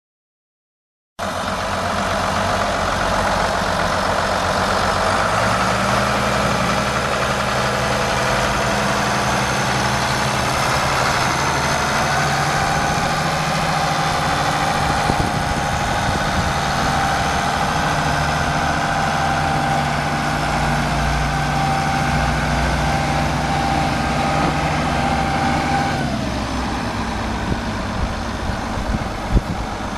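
1978 International Hydro 186 tractor engine running, starting abruptly about a second in. A few seconds later the engine speed rises and holds steady, with a whine above the engine note. Near the end both drop back as the revs fall.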